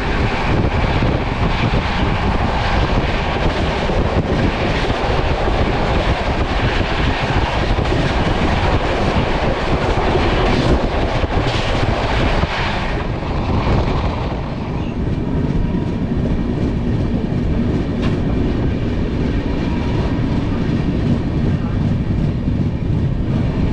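Passenger train running at speed: a loud rushing noise over a steady low rumble. About halfway through, the hiss in the upper range drops away and a lower, steadier rumble remains.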